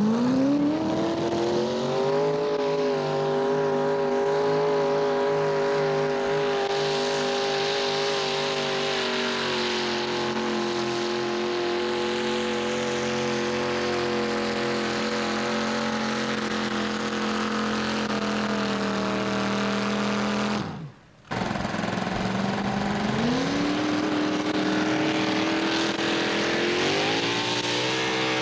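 Mini-modified pulling tractor's engine at high revs on a pull: it climbs in pitch at the start, holds a loud, steady note that slowly sags over about twenty seconds, then cuts out for about half a second. After the break an engine revs up again, climbing in two steps near the end.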